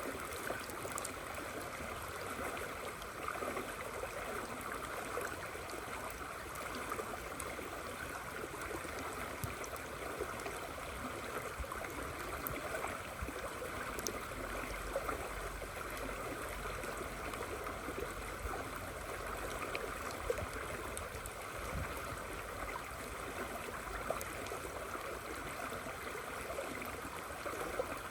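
River water flowing in a steady, even rush, recorded during rainfall, with scattered light ticks of drops over it.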